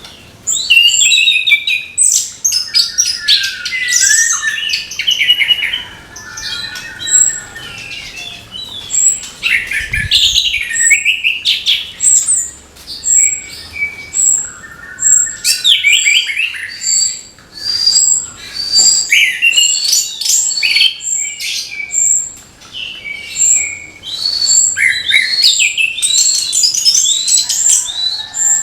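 Orange-headed thrush singing a loud, varied song of fast twittering phrases with short pauses between them. Through most of it a short, high, thin note repeats about once a second.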